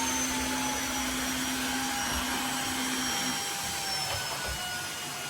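Tineco iFLOOR 3 cordless wet-dry floor cleaner's motor and brush roller running, a steady rush of air with a whine that slowly falls in pitch as it drops from max to eco mode. A low hum in it stops partway through, and the sound eases a little near the end.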